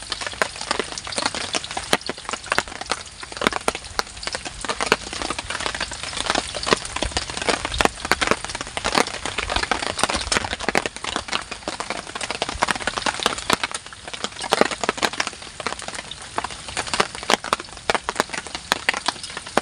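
Jengkol beans deep-frying in hot oil in a wok: a dense, steady crackle and spatter of oil.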